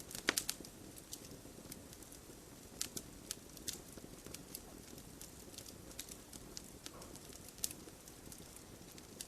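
Logs burning in a fireplace: irregular sharp crackles and pops over a low, steady rumble of flames, with a quick run of several pops just after the start.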